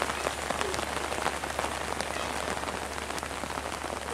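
Steady rain hissing, with many sharp drop ticks landing close by.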